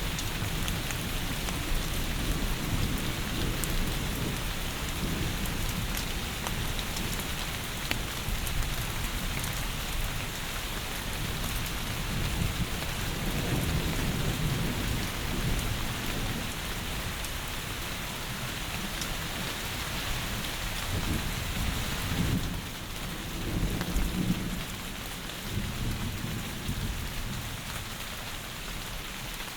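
Heavy rain falling steadily, a constant hiss, with low rumbles of thunder rolling under it, swelling about halfway through and again a few seconds before the end.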